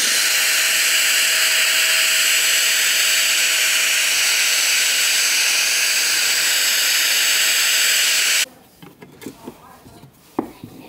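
Steady, loud hiss of compressed air from a workshop air tool, with a faint whine in it, cutting off abruptly about eight seconds in; a few light knocks and a sharp click follow as the work is handled.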